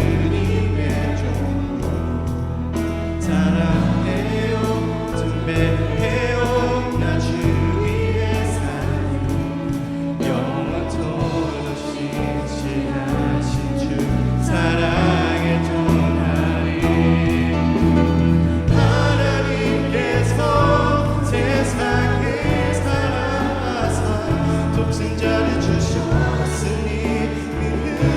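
Church praise team singing a worship song in several voices, over instrumental accompaniment with a low bass line that moves from note to note.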